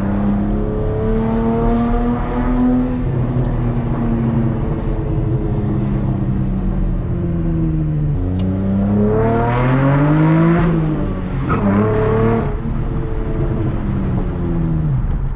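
Exhaust of a V6 Chevrolet Camaro with its muffler removed, under way: a steady engine note for several seconds, then a hard pull where the pitch climbs, dips once at a gear change, climbs again and falls away as the throttle is lifted.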